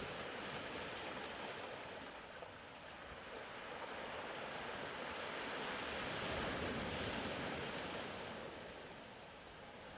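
Soft ocean-surf ambience as a faint, steady wash of noise that slowly swells to a peak about six or seven seconds in and then ebbs away, like one wave rolling in and drawing back.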